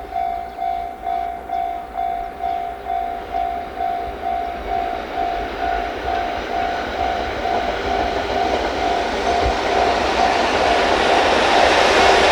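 A warning bell dinging about twice a second, typical of a railway level crossing. It is gradually drowned out by the rising rumble and wheel clatter of an approaching train hauled by an EF81 electric locomotive, which is loudest near the end.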